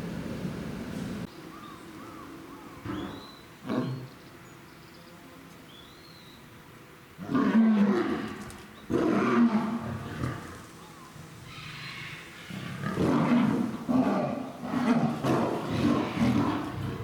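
Lions snarling in a threat display, a lioness warning off a male lion. The sound comes in two loud, rough bouts, the first about seven seconds in and the second from about twelve seconds in.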